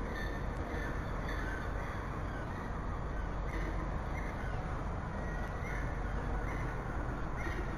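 Short bird calls repeated at irregular intervals, roughly once a second, over a steady low outdoor rumble on the microphone.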